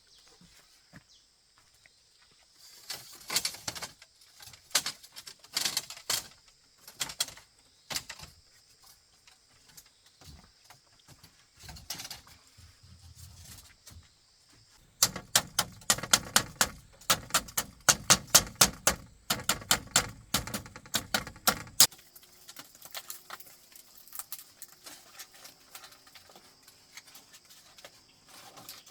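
Scattered knocks and clatter, then a run of sharp, rapid strikes about three a second for some seven seconds that stops suddenly, over a faint steady high-pitched hum.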